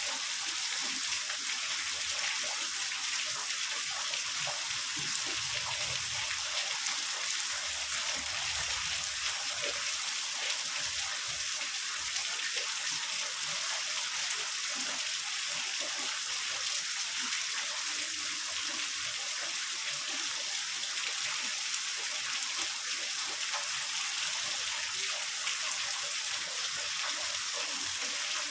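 Heavy rain falling in a steady, even hiss, with a faint low rumble about five and eight seconds in.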